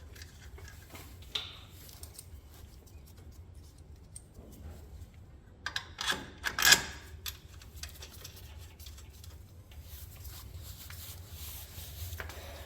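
Metal parts and tools being handled while the front knuckle assembly is fitted: scattered light clicks and clinks, with a short burst of louder knocks about six seconds in, over a steady low hum.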